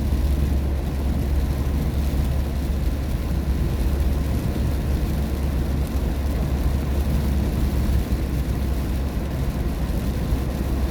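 Steady low rumble of a car driving on a rain-wet road, heard from inside the cabin: tyre and road noise with the engine underneath, even and unbroken.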